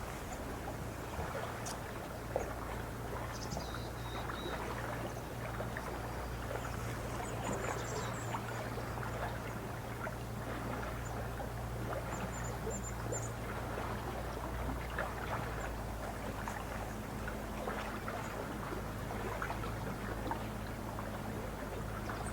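Small waves lapping at a lake's edge, a steady stream of little splashes over a low rumble, with a few faint high bird chirps around four seconds in, again at seven to eight seconds, and near thirteen seconds.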